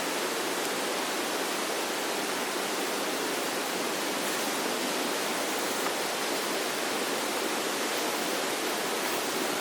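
Steady, even rushing of running water, with no other events.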